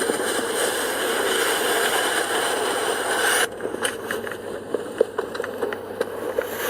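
Inside a very quiet car's cabin: a steady hiss that drops off sharply about halfway through, followed by scattered light clicks and taps. There is no engine note to be heard.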